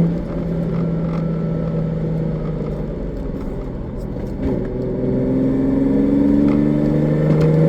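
Nissan 350Z's 3.5-litre V6 engine under way: the revs fall right at the start as the driver lifts off, then build steadily from about halfway, the engine note rising toward the end, over steady road noise.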